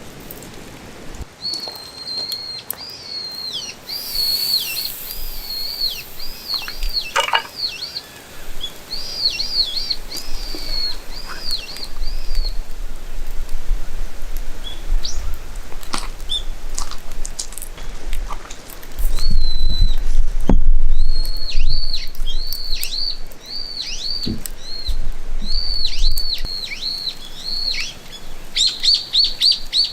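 A bird singing outdoors: long runs of quick, high whistled notes, each ending in a falling flick, with a pause near the middle. A low rumble swells in and out, loudest a little past the middle.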